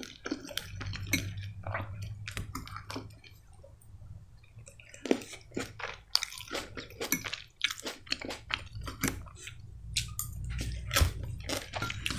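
Close-miked chewing with many small wet mouth clicks, and a metal fork tapping and scraping in a bowl of cucumber and tomato salad.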